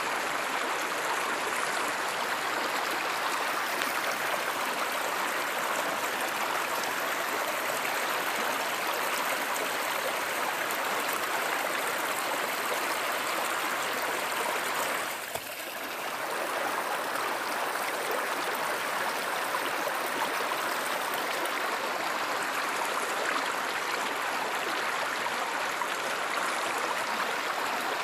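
Water of a stream or river flowing steadily, an even rushing that dips briefly a little past halfway before returning.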